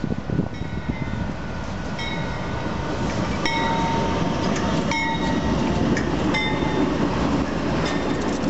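Union Pacific freight train led by three diesel locomotives drawing near, the engines' rumble growing steadily louder. A few ringing metallic clangs come about every second and a half. Near the end the lead locomotive reaches the microphone with a rapid clatter of wheels on the rails.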